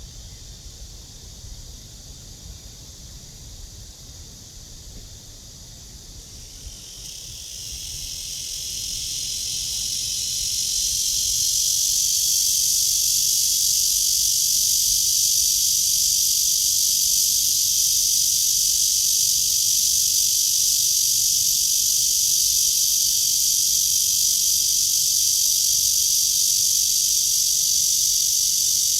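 Cicada song, starting about seven seconds in and swelling over a few seconds into a loud, steady, high-pitched buzz.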